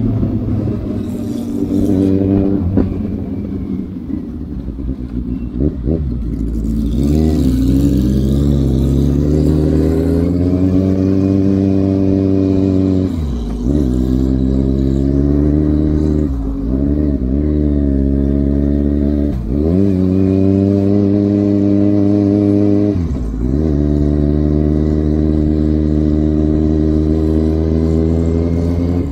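Inline-four motorcycle engine heard from the bike itself as it accelerates up through the gears. The pitch climbs, drops briefly at each shift and climbs again, with several quick shifts in the second half.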